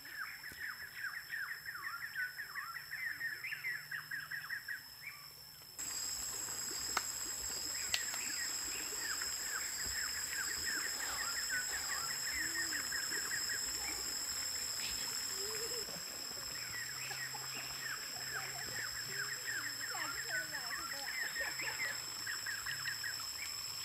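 Birds calling in repeated runs of quick chirps over a steady high-pitched whine, with the background stepping up abruptly about six seconds in.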